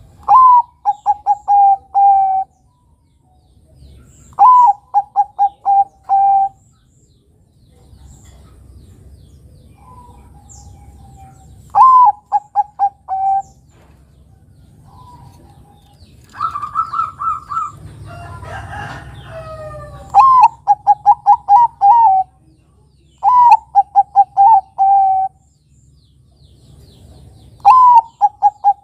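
Bangkok-type zebra dove (perkutut) cooing in repeated phrases: each opens with a higher note followed by a quick run of four or five short, lower notes, with pauses of a few seconds between phrases. One phrase, about halfway through, is pitched higher than the rest.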